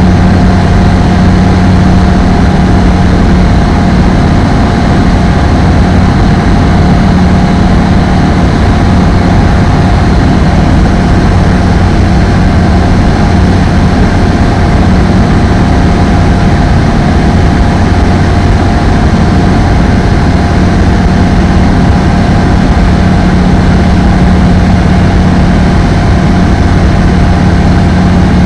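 Apollo Fox ultralight aircraft's engine and propeller in flight, a loud, steady drone with no change in power.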